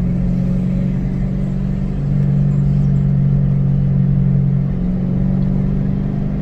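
2006 Ford Mustang GT's 4.6-litre V8 running at a steady cruise under way, a low engine drone over road rumble, its note shifting slightly about two seconds in and again near five seconds.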